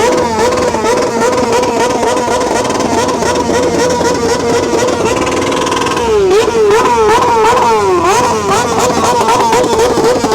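A car engine revved high and held there, its pitch wavering quickly, then dropping and climbing in a series of quick rev blips about six seconds in.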